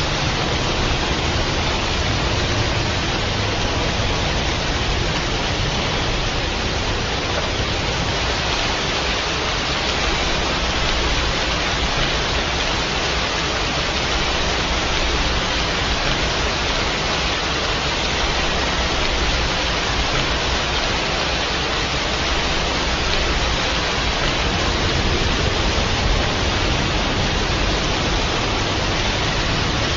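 Steady heavy rainfall: a continuous, even rush of rain that does not let up.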